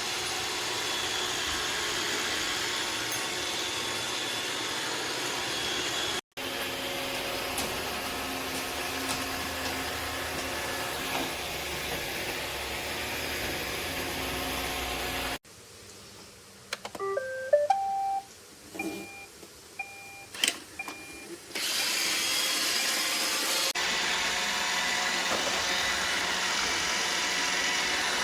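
iRobot Roomba Vac Essential robot vacuum running with a steady whir. A little past halfway the motor noise stops and a few short electronic beeping tones sound, some of them rising, then the vacuum starts running again, a little louder.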